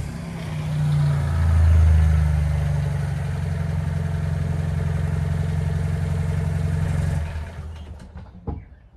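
Car engine running: it swells up about a second in, then runs steadily at idle, and stops about seven seconds in. A few short knocks follow near the end.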